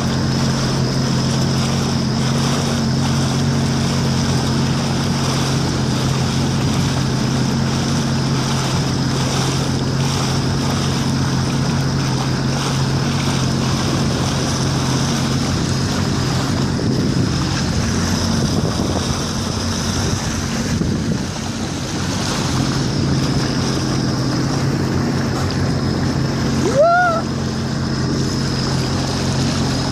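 Jet ski engine running at a steady speed, with wind on the microphone and water rushing past. A short rising call is heard near the end.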